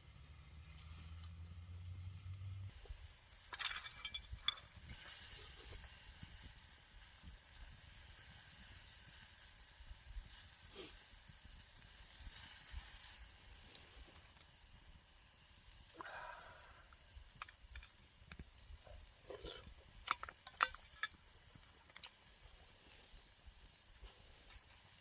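Wood campfire hissing and crackling, with scattered sharp pops, loudest about twenty seconds in. A low hum stops about three seconds in.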